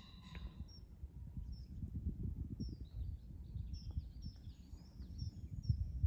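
Small birds chirping: a scatter of short, high chirps throughout, over a low, uneven rumble.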